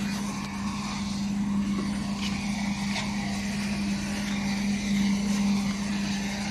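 A heavy machine's engine running at a steady, even speed, with a couple of faint clicks about two and three seconds in.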